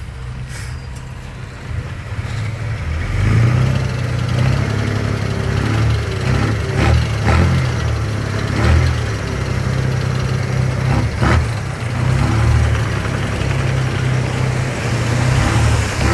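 Diesel engine of heavy earthmoving machinery running and working harder about three seconds in, with several sharp metallic clanks.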